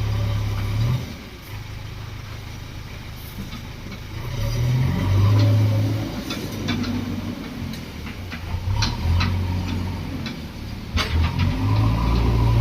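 JCB 3DX backhoe loader's diesel engine working under load, revving up and easing off several times, with a run of sharp knocks and clanks near the middle and end.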